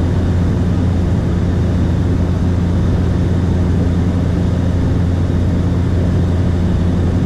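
Light propeller aircraft's engine running steadily, an even low drone heard from inside the cabin.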